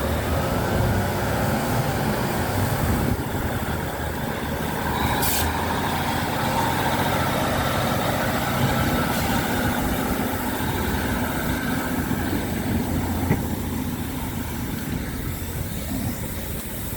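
Train at a station platform: a steady rumble of locomotive engines running, with a brief hiss about five seconds in.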